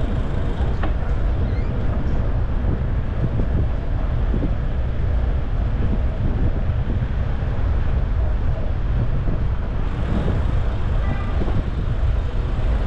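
Steady street and traffic noise picked up while cycling, dominated by a constant low rumble.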